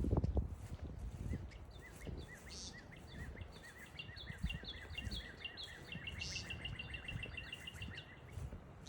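A songbird calling in a long series of short, repeated chirps that quicken through the middle, over low rustling and wind rumble from walking on the trail. A louder low thump comes right at the start.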